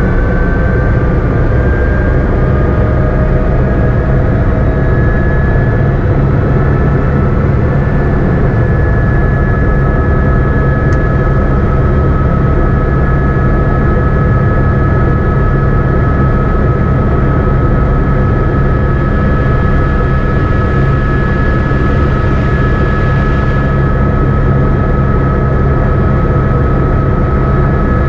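Helicopter in flight: a steady, loud low drone of engine and rotor, with a high whine that rises slightly in pitch over the first several seconds and then holds steady.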